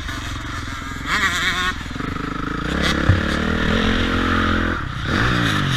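Motocross dirt bike engine revving up and down under riding. The pitch swings about a second in and again near the end.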